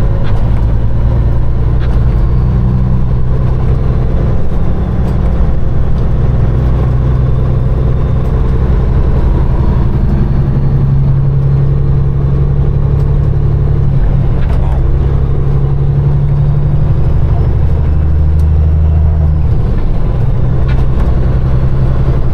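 Peterbilt 389 semi truck's diesel engine droning steadily under way, heard from the cab, its pitch shifting a couple of times as the engine speed changes.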